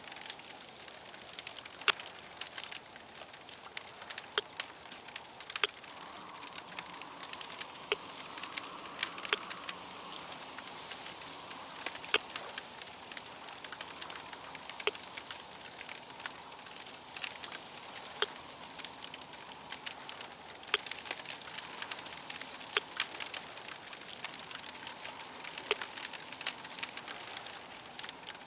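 Crackling fire: a steady hiss with sharp pops and snaps at irregular intervals.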